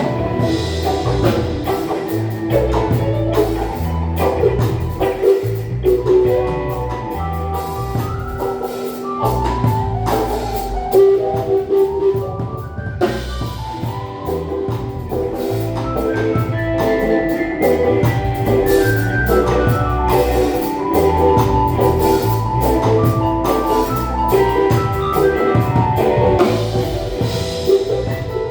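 Live band playing an instrumental passage: drum kit and bass under a run of short, bright melodic notes.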